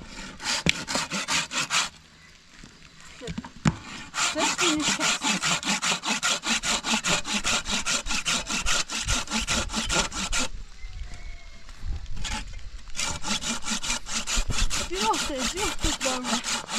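Hand saw cutting wood with rapid back-and-forth strokes in three spells, stopping briefly about two seconds in and again about ten seconds in.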